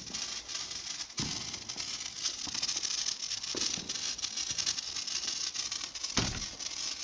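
Hand-held sparklers fizzing and crackling steadily, with a dull thump about a second in and another near the end.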